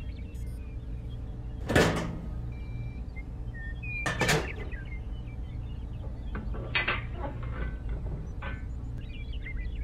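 Toy tractor attachments being handled: two sharp clacks about two and a half seconds apart, then several lighter clicks as the roller is fitted to the hitch. A low steady hum runs underneath.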